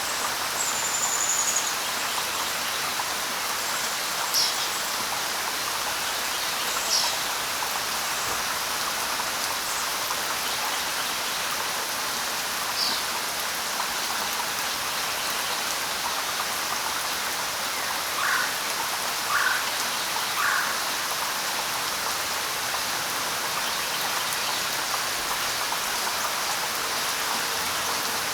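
Steady hiss of light rain falling on leaves, with scattered short bird chirps and a run of three lower bird calls about two-thirds of the way through.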